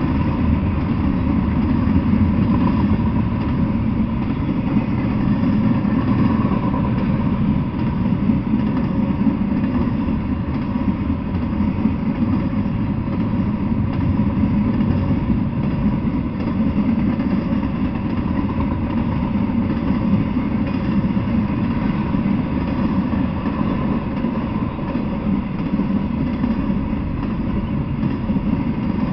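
Intermodal freight train of stacked containers and trailers rolling past, a steady low rumble of steel wheels on the rails with a faint steady high tone over it.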